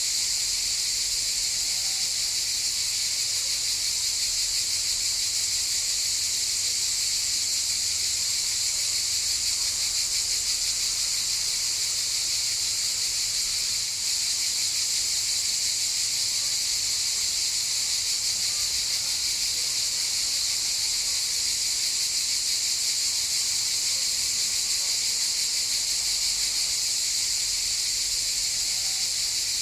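Chorus of cicadas buzzing in a steady, unbroken high-pitched drone.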